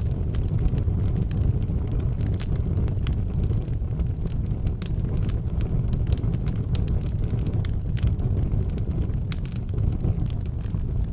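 Wood fire in an outdoor fireplace crackling, with sharp irregular pops over a steady low rumble.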